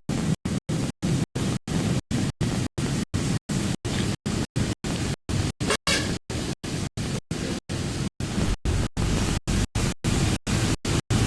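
A steady hiss over a low rumble, chopped by regular dropouts to silence about four times a second: a stuttering, glitching recording.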